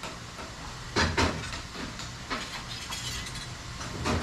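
A few short knocks and clatters, about a second in, again midway and near the end, over a steady background hiss.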